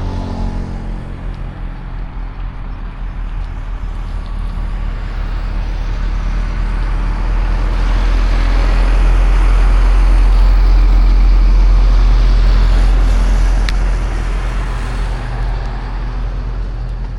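Road traffic in a city street: engine and tyre noise swells as a vehicle passes close, loudest about ten seconds in, then fades, over a steady low rumble.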